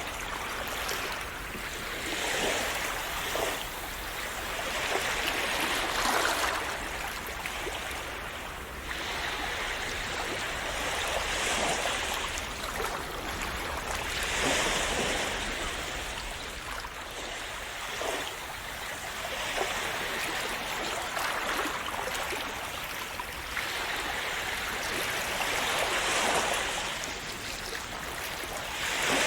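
Small sea waves breaking and washing on a shore: a steady hiss of surf that swells and fades every few seconds.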